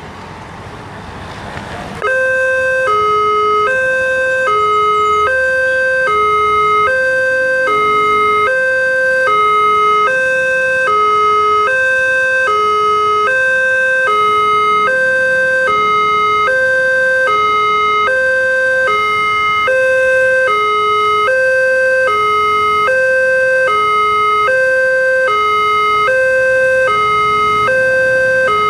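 Railway level-crossing electronic warning alarm, sounding a steady two-tone alternation that begins abruptly about two seconds in and repeats evenly. It warns that a train is approaching and the barriers are closing.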